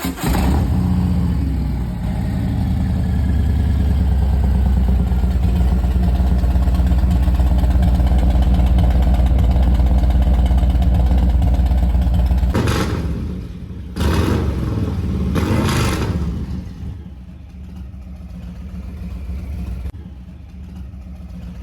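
Motorcycle engine breathing through a Bassani aftermarket exhaust, running with a loud, deep note for about twelve seconds. It is then revved twice in quick succession and settles to a quieter idle for the rest of the time.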